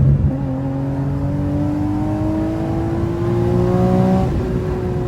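Car engine accelerating hard, its note rising steadily for about four seconds, then easing slightly and holding steady near the end.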